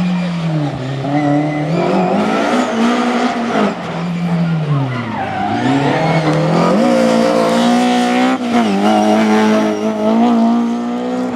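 Rally car engine on a special stage: the revs drop twice as it brakes and shifts down, rise again under acceleration, then hold at a high steady note through the last few seconds.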